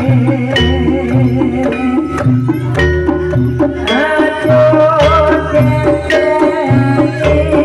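Live jaranan ensemble music: drums beat a steady low pulse under ringing metallophone tones and a wavering high melody line.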